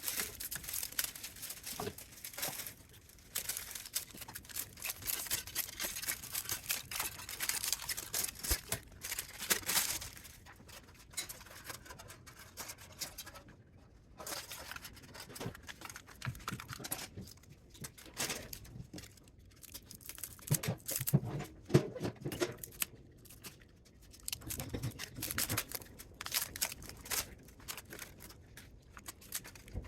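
Thin metal foil crinkling and tearing as it is peeled apart by hand, in irregular rustles and clicks that come and go.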